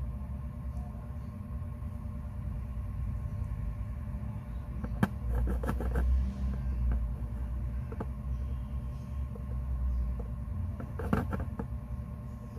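Steady low rumble with a few small, sharp clicks and taps: a cluster about five seconds in, one around eight seconds, and another cluster near eleven seconds.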